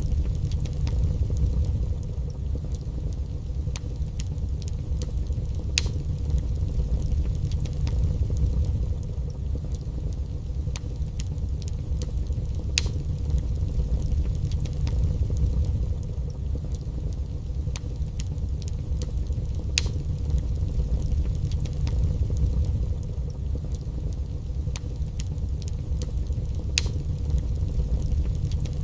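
Wood fire burning in a fireplace: a steady low rumble with scattered sharp crackles and pops, a few louder ones every several seconds.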